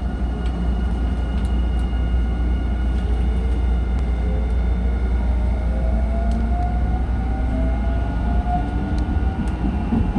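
Nankai Main Line electric train heard from inside, running with a steady low rumble while a whine from the traction motors rises slowly in pitch as the train gathers speed; a few sharp clicks from the wheels on the track.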